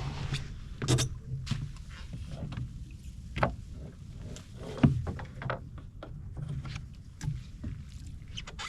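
Splashing in shallow water as someone steps off a skiff and wades barefoot through flooded marsh grass, with a few sharp splashes or knocks, the loudest about five seconds in, over a low, uneven rumble.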